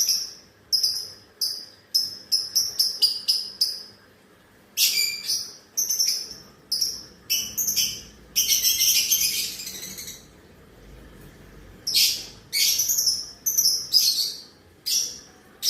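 Lovebirds chirping: runs of short, shrill chirps a few a second, with harsher, screechy calls in between, the longest about halfway through.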